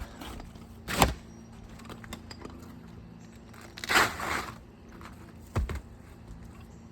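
Asphalt roofing shingles being handled: a sharp knock about a second in, a short scraping rustle in the middle, and a lighter knock near the end.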